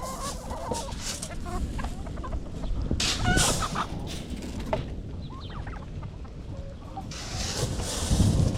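A flock of backyard chickens clucking, with scattered short calls over a steady low rumbling noise. There is a brief rustle about three seconds in and a louder swell of noise near the end.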